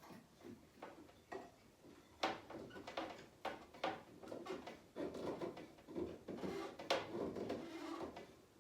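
A series of irregular knocks, clicks and light clattering: wooden boards and saw parts being handled and set in place. It grows busier in the second half, with the sharpest knocks about two seconds in and near the end.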